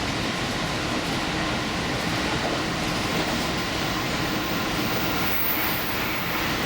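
Diesel limited express train running steadily at speed, its wheels and engine making an even rumble heard from inside the front car.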